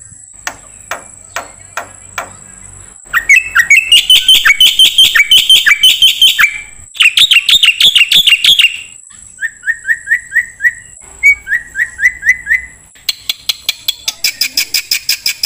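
Songbird song played as a masteran tutoring recording. It opens with sharp single ticks about twice a second, then loud, fast phrases of rapidly repeated notes, groups of short downward-slurred whistles, and a quick run of repeated notes near the end, over a steady high thin tone.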